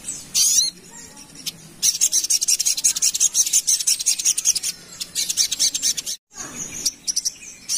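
Sogok ontong sunbird singing a rapid, dense, high-pitched rattling song: a short burst near the start, a long unbroken run of fast notes through the middle, a brief pause, then more near the end.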